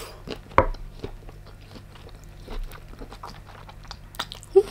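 Close-miked chewing and biting of firm, crunchy tiger prawn meat: a run of small wet clicks and smacks, with one louder crunch about half a second in.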